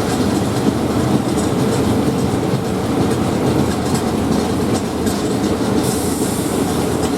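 State Railway of Thailand train running on the rails, a steady rumble with wheels clacking over the rail joints. A brief high hiss comes about six seconds in.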